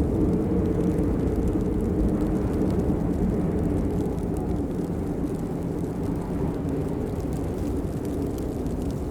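Steady rain, a deep even rushing noise with faint scattered drop taps over it.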